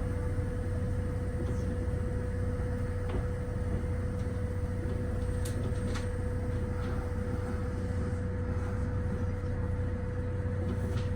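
Interior noise of a Kintetsu electric train: a steady low hum under one constant mid-pitched tone, with a few faint clicks.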